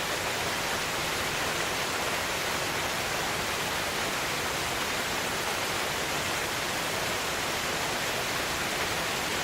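Multi-step waterfall swollen with snowmelt, a steady, powerful rush of falling and splashing water with no change in loudness.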